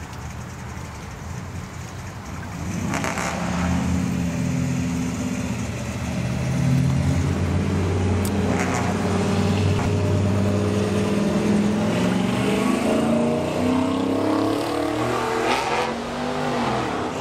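A motor vehicle's engine running close by, fairly loud and steady at first, then rising in pitch as it speeds up near the end.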